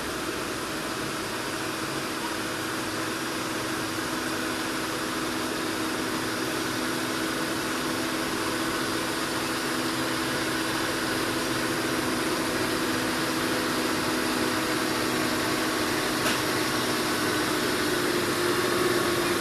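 Heavy truck's diesel engine running steadily on a steep climb, growing slowly louder, with its pitch edging up near the end.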